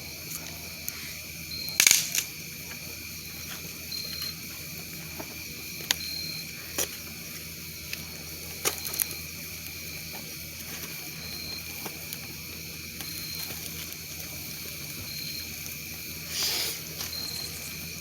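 Campfire crackling: scattered sharp pops and clicks, the loudest about two seconds in and a short cluster near the end, over a steady outdoor hiss.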